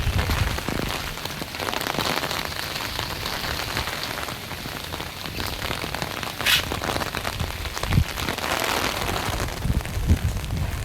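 Heavy typhoon rain and strong gusting wind, with wind buffeting the microphone. There is a brief sharper burst about six and a half seconds in and a dull thump near eight seconds.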